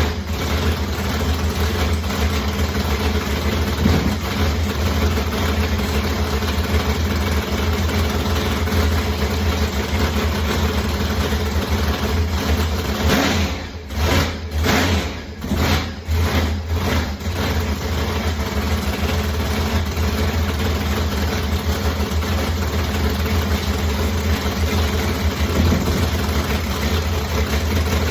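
Supercharged race engine idling steadily while its ignition timing is being checked. About halfway through, the sound dips and surges briefly a few times.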